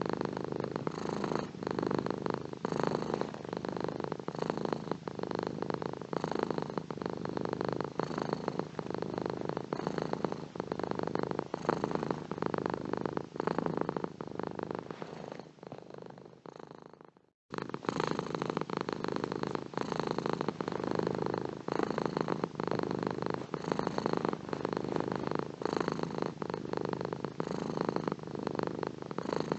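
Domestic cat purring close up, a steady rattling purr. About two-thirds of the way through it fades, stops for a moment, then starts again abruptly.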